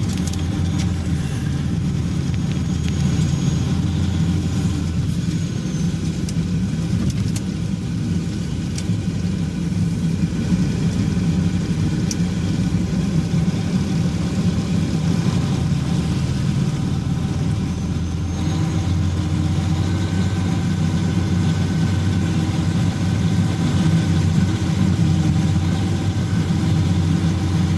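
Steady low engine drone of a sander truck driving slowly, with no marked revving.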